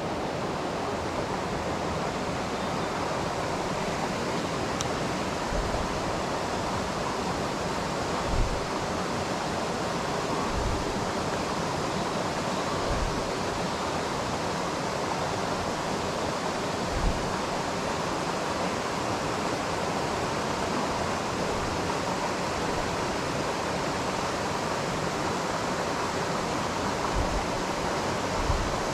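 Mountain stream water rushing steadily, a continuous even noise, with a few brief low bumps now and then.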